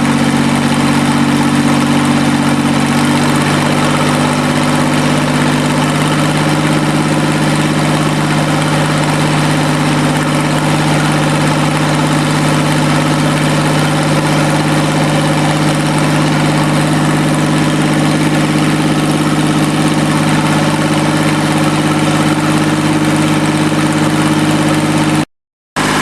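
QC385 three-cylinder diesel engine idling steadily at warm-up idle, about 850 rpm. The sound drops out completely for a split second near the end.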